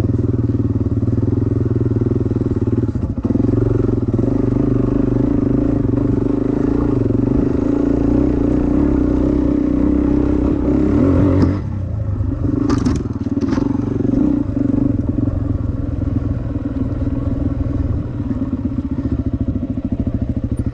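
Dirt bike engine running steadily under throttle, then dropping back to a lower, quieter note about twelve seconds in, with a couple of sharp clicks soon after.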